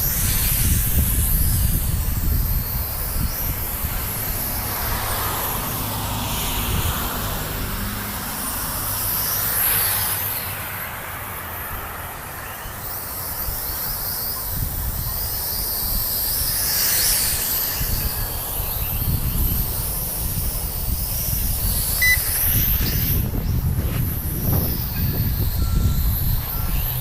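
Wind buffeting the microphone in uneven gusts, over the high whine of a JJRC H33 mini quadcopter's small brushed motors and propellers rising and falling as it flies.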